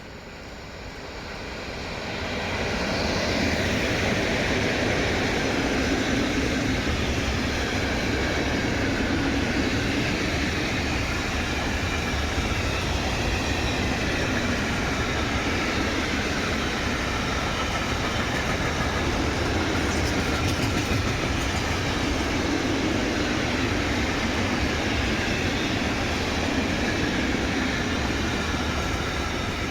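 A train passing close by on the line, its rail noise building over the first few seconds, holding steady for a long stretch, then dying away at the end.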